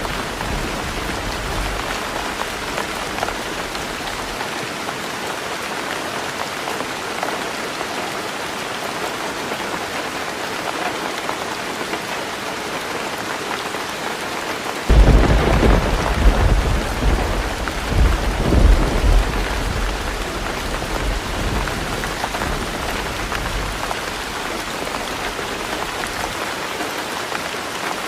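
Heavy rain drumming steadily on a tin roof. About halfway through, a thunderclap breaks suddenly and rumbles for several seconds before fading back under the rain.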